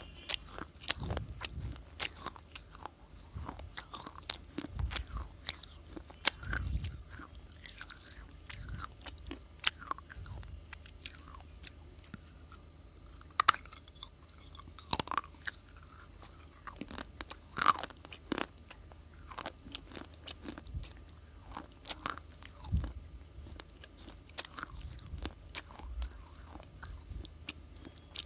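Close-miked biting and chewing of hard, brittle baked clay pieces: irregular sharp crunches and crackles, a few each second, with occasional dull low thumps.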